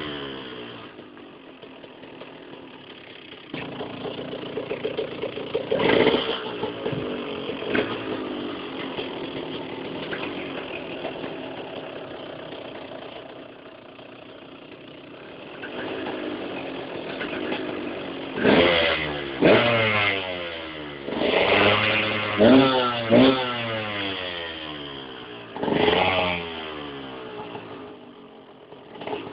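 125 cc two-stroke motocross bike engine idling and being blipped: one rev early on, then a string of quick, sharp revs in the second half, each rising and falling back to idle, and one more near the end.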